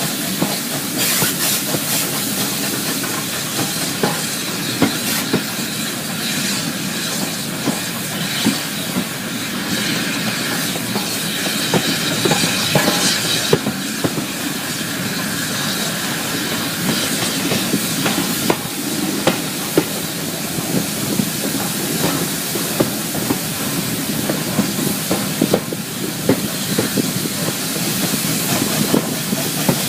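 Steam-hauled train on the move: a steady hiss and running noise, with wheels clicking irregularly over the rails.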